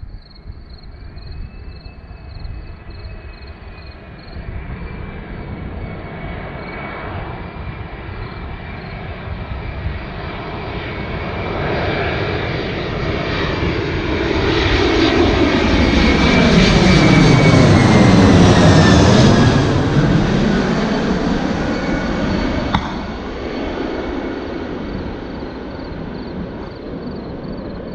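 Jet airliner passing low overhead: its engine noise builds for about fifteen seconds, peaks, then fades away, with a high whine that drops in pitch as it goes past.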